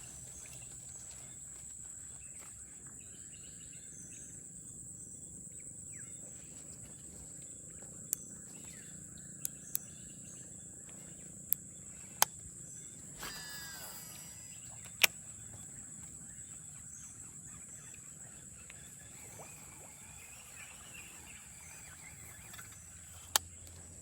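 Steady high-pitched insect drone, with a handful of sharp clicks scattered through it and a brief scratchy burst a little past the middle.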